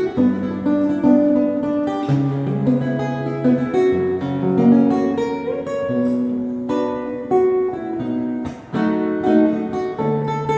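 Solo guitar playing a tune with held bass notes under chords and melody, partly improvised.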